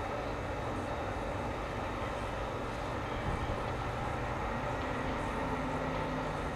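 A railway train running, giving a steady, even mechanical noise with a low hum.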